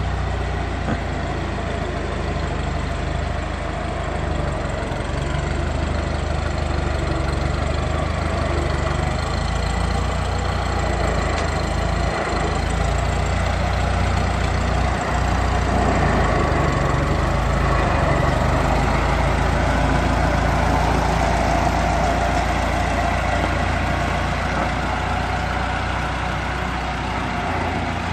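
Ford Model T's four-cylinder engine running steadily at idle as it is run up.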